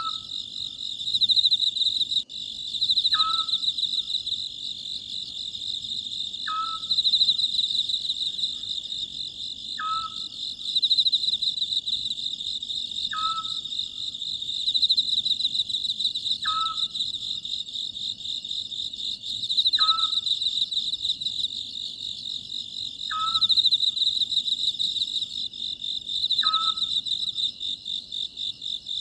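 Oriental scops owl calling, a short falling note repeated about every three seconds, over a steady high-pitched chorus of crickets that swells and fades and is the louder of the two.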